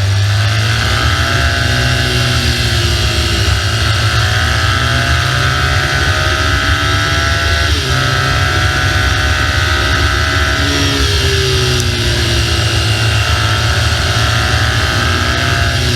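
BMW R1200GS boxer-twin motorcycle engine running on the move, its pitch rising and falling with the throttle, with a short break in the engine note about eight seconds in. Steady wind rush lies under it.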